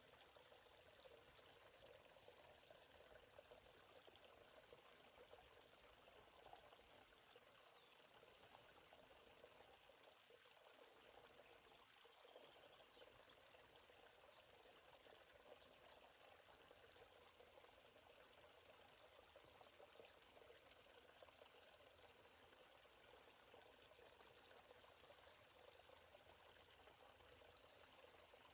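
Steady, high-pitched insect chorus, a continuous droning buzz, over the faint flow of a stream.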